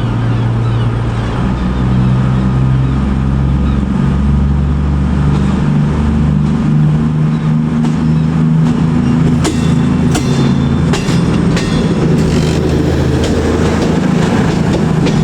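Passenger train running, heard from on board: a steady low drone whose pitch steps up and down. From about halfway through, a rapid clatter of wheels over rail joints joins it.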